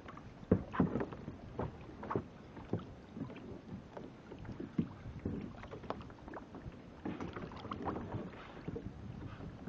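Water splashing and slapping against a kayak, with irregular short knocks and splashes every second or so over a low wash of water.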